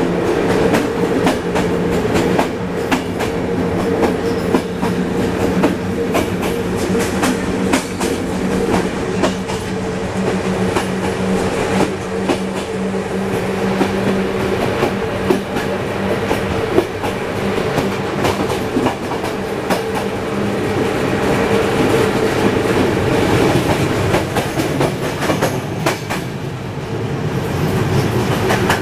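Romanian passenger train running at speed behind an electric locomotive, heard through an open carriage door: continuous wheel-and-rail rumble and rushing air, with irregular clickety-clack from rail joints. A steady hum runs underneath and fades after about twenty seconds.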